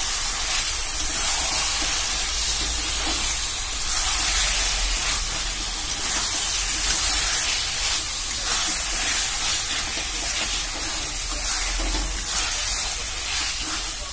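Chicken pieces frying in hot oil and masala in a wok, sizzling with a steady hiss while they are stirred with a metal spatula. This is the chicken browning in the spice paste for a chicken curry.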